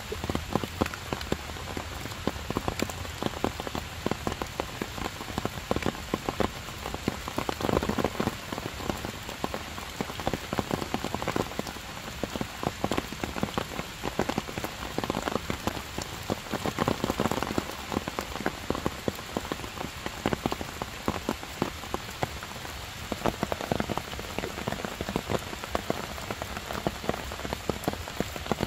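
Heavy rain falling steadily on stone and leaves, a dense hiss laced with many sharp hits of close drops.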